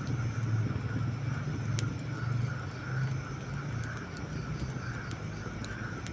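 Wood campfire burning with a few sparse crackles and one sharp pop about two seconds in, over a steady low rumble that eases after about four seconds.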